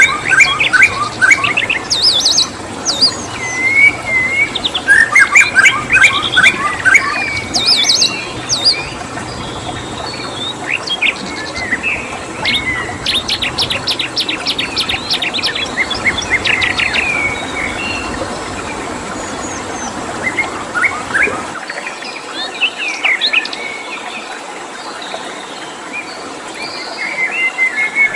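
Several songbirds chirping and trilling in overlapping calls, including fast stuttering trills, over a steady background hiss. About three quarters of the way through, the low part of the background drops out and the birds thin out.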